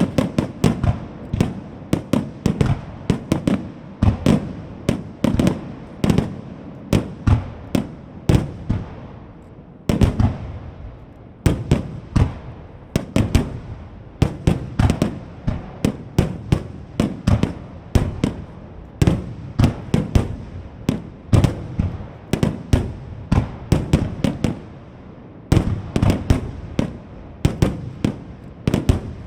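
Starmine fireworks barrage: shells launching and bursting in rapid succession, several bangs a second, each with an echoing tail. The barrage eases off briefly about ten seconds in and again near the end, then picks up again.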